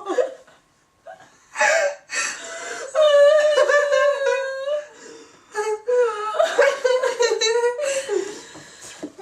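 A person's high-pitched wordless vocalizing: whiny, laugh-like sounds that glide up and down, with one long held note in the middle.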